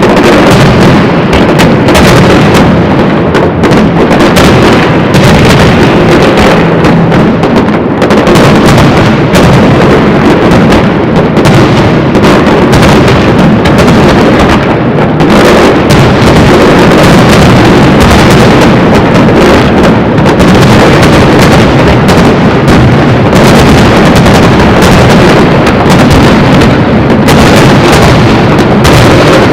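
Aerial firework shells bursting in a rapid, unbroken barrage, one report running into the next and so loud that the recording stays pinned near its maximum level.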